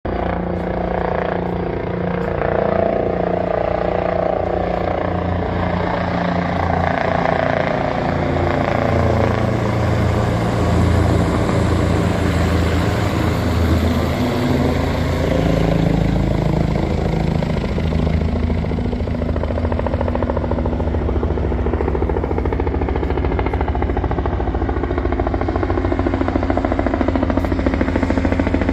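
Bell turbine helicopter running, its rotor beating steadily under a turbine whine; the tones bend down and back up in pitch around the middle.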